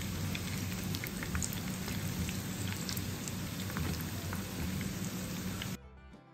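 Breaded chicken fillets deep-frying in hot oil: a steady sizzle full of scattered pops and crackles. It cuts off abruptly near the end, and faint music follows.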